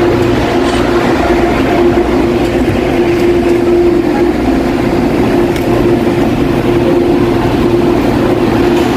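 Cabin noise inside a CAF-built MTR Airport Express train: a steady rumble with a constant hum.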